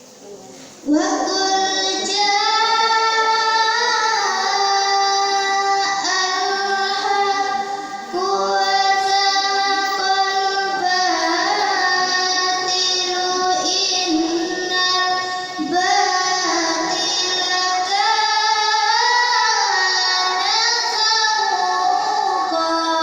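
A young girl's voice reciting the Qur'an in melodic tilawah style, starting about a second in and holding long, ornamented notes with short breaths between phrases.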